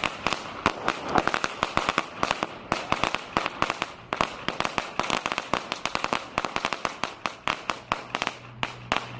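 Consumer fireworks going off in a rapid, irregular series of sharp bangs and crackles, several a second, stopping just before the end.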